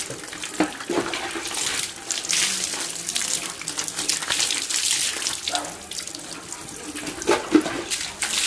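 Water running from a tap and splashing unevenly while a dog is bathed.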